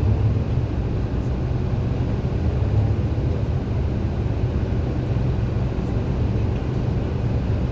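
MAN A91 bus's diesel engine running steadily under way, a low, even drone.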